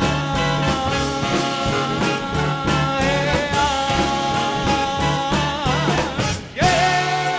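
Live swing band with saxophones, trumpet and trombone over upright bass and drums, playing the closing bars of a song with long held notes on a steady beat. Near the end a wavering run of notes leads into a short break and then a loud held final chord.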